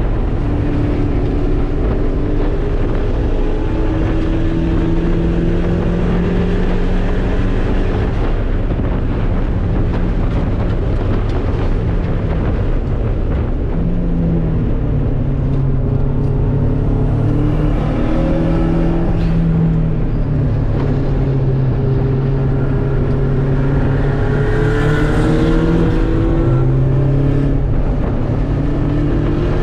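Race car engine heard from inside the cabin while lapping a circuit. Its pitch climbs under acceleration and drops back at shifts and lifts, again and again, over steady wind and road noise.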